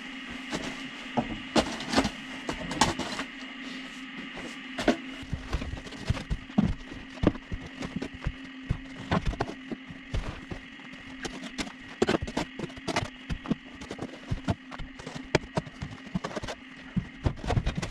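Irregular knocks and crunches of a hand tool busting up frozen silage, over a steady hum.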